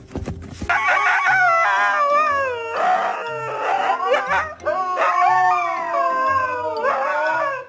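A dog howling in long, wavering howls that slide down in pitch, with a short break about halfway through.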